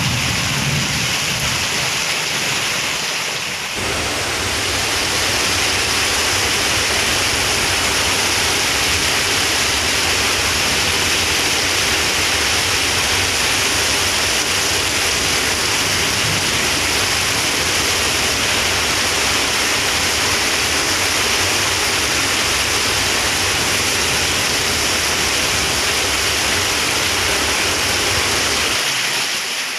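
Heavy monsoon rain pouring down in a strong storm, a steady loud rush of water. A low rumble of thunder fades out in the first second or two.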